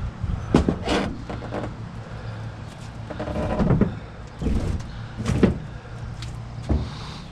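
Heavy scrap metal being shifted and loaded by hand: a series of irregular clunks and scrapes over a steady low hum.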